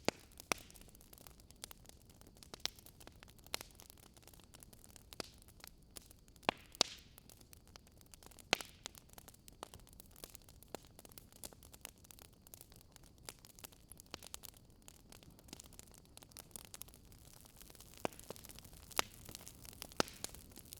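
Crackling wood fire: irregular sharp pops and snaps, a few a second, over a faint steady hiss.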